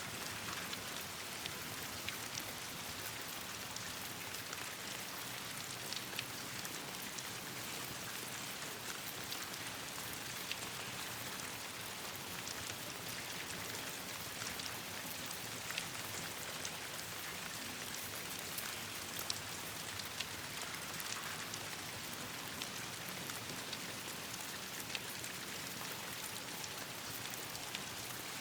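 Steady rain falling on leaves and branches, an even hiss with many scattered sharp ticks and pops through it.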